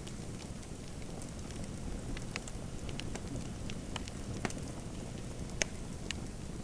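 Fireplace crackling: a steady low rumble of burning with scattered sharp pops, about half a dozen, the loudest near the end.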